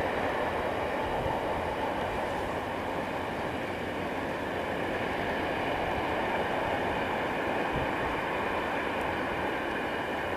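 Freight train of railway tank wagons rolling past, a steady, even noise of wheels running on the rails.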